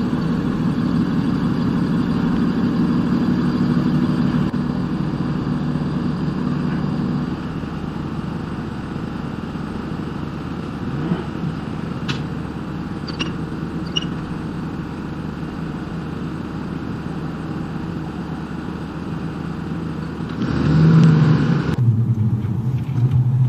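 Car driving as heard on dashcam footage: steady engine and road noise. Its character changes abruptly several times as one clip cuts to the next, and there are a few light clicks about halfway through.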